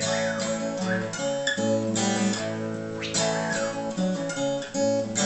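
Acoustic guitar strummed, with new chords struck about once a second, playing between sung lines of a song.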